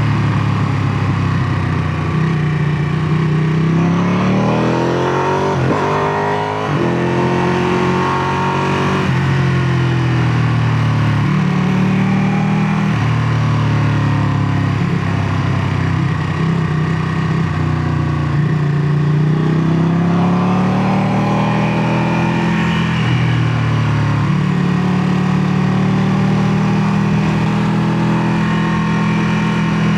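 Ducati Panigale 959's L-twin engine on its stock exhaust, running loud with its revs climbing and dropping back several times; the longest climb breaks off sharply about six and a half seconds in.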